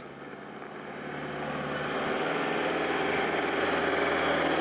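Forklift engine running as the forklift approaches, growing louder over the first two seconds and then holding steady; pretty loud.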